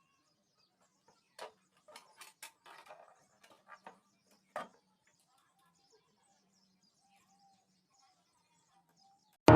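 A few faint, sharp clicks and taps scattered over a few seconds, then faint short chirps in the background. Music starts at the very end.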